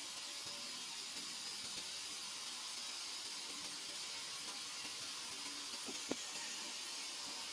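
Steady faint hiss, with one short click about six seconds in.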